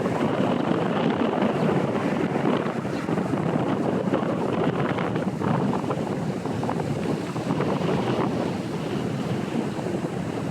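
Storm-force wind buffeting the microphone: a loud, continuous rough rush that swells and dips without a break.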